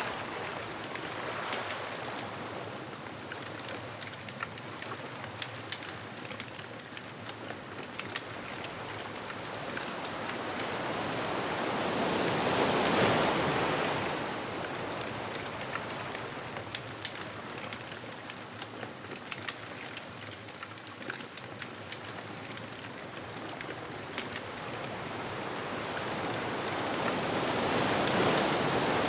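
Ocean waves washing onto a beach, swelling to a peak twice, a little before halfway and again near the end, over a scatter of fine crackles from a bonfire.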